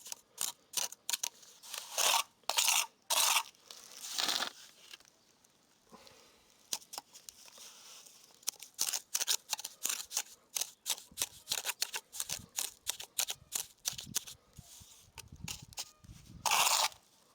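Bricklaying: a mason's trowel scraping and tapping on brick and mortar in many quick short strokes, with a few longer scrapes.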